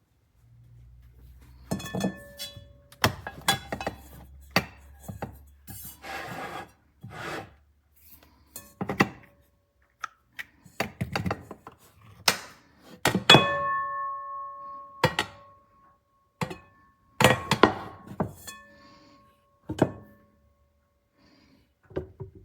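CAROTE nonstick pots, pans and lids being handled and set down: a series of knocks and clinks, several of them ringing briefly with a metallic tone, with a short scrape about six seconds in.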